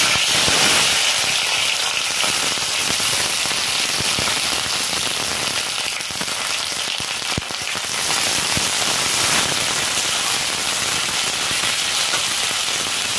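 Sliced onion, garlic, ginger and green chillies frying in hot mustard oil in a steel kadai: a loud, steady sizzle full of spitting crackles, starting suddenly as the vegetables drop into the oil.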